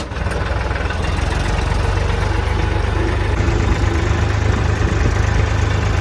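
Tractor engine running steadily, a deep, even drone with no change in pace.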